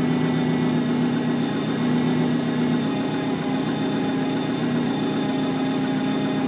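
2013 Subaru STI's freshly rebuilt 2.5-litre turbocharged flat-four (EJ257) idling steadily on its first run after the engine build.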